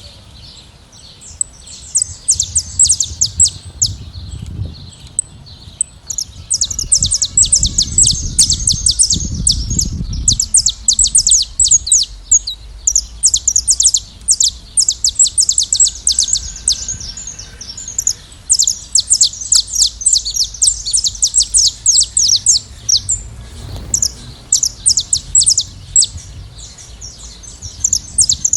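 A flock of saffron finches singing and chirping: a dense, nearly unbroken run of rapid high chirps with a brief lull about five seconds in. A low rumble lies under the first ten seconds or so.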